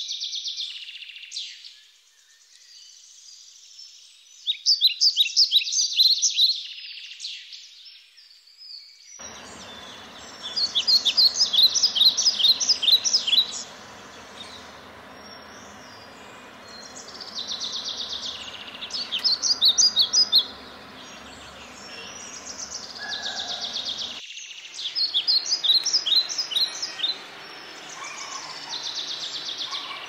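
Small birds chirping in repeated bursts of rapid, high twittering notes, one burst every few seconds. A steady background hiss comes in suddenly about nine seconds in.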